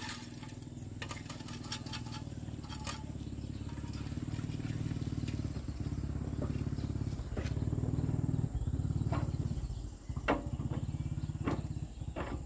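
Old tractor engine running with a steady pulsing beat and clattering knocks on top. It grows louder through the first eight seconds and dips briefly twice near the end.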